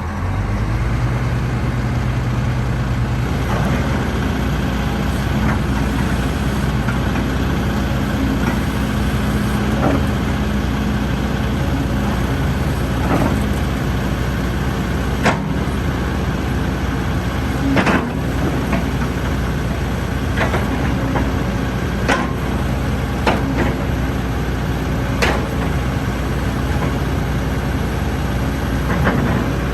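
Hitachi ZX120-3 hydraulic excavator's diesel engine running steadily, picking up speed about three seconds in, with scattered sharp metallic clanks and knocks.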